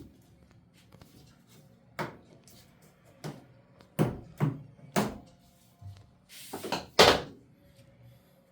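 A series of sharp knocks and clicks, the work of a tool on a washing machine's door-boot clamp: single hits spaced about a second apart, then a louder cluster of clanks near the end.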